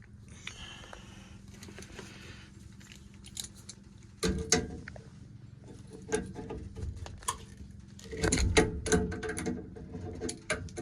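Scattered clicks, clatter and knocks of objects being handled, with a heavier knock about four seconds in and a busier cluster near the end, over a steady low hum.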